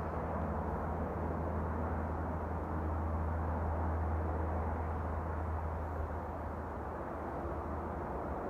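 A loud, steady, low mechanical drone coming from overhead. It swells slightly about halfway through and then eases off a little.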